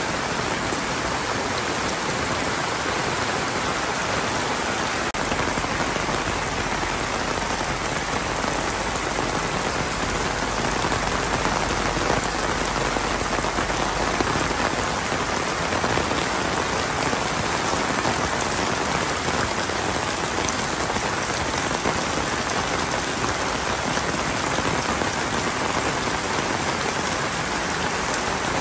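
Heavy monsoon rain pouring steadily onto a village lane and the roofs and eaves along it: a dense, even hiss of falling drops.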